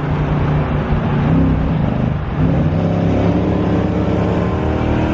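Car engine running hard under throttle, its revs dropping about two seconds in and then climbing again.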